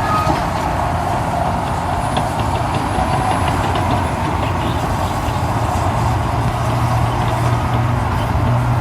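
Heavy diesel machinery running steadily: the engines of an excavator loading a dump truck. A low engine hum grows stronger about six seconds in.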